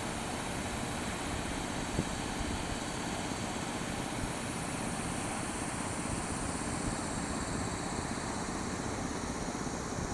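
Freight train hauled by an EU07 electric locomotive rolling past: a steady rumble of the locomotive and of container wagons running on the rails.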